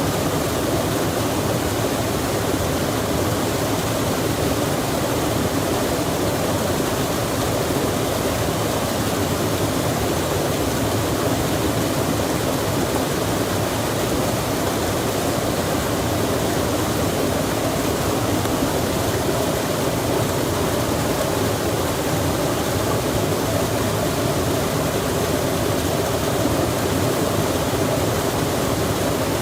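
A stream flowing in the rain: a steady, even rush of running water with falling rain mixed in, unchanging throughout.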